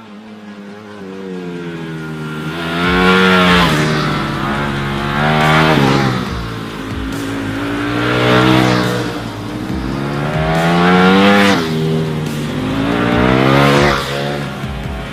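Ducati Panigale V4 superbike's V4 engine being revved, its pitch and loudness climbing and falling back about five times in a row.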